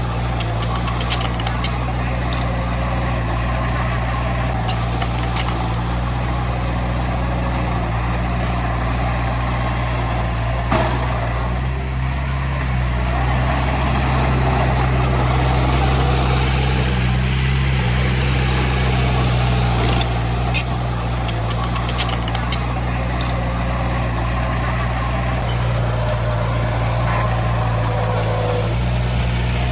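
Heavy diesel engine of earthmoving equipment running steadily, with scattered short knocks and clatter over it.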